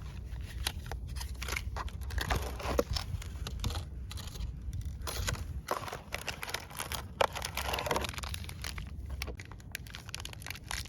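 Plastic packaging and packets of a self-heating hotpot being torn open and crinkled by hand, in many short, irregular rustling bursts.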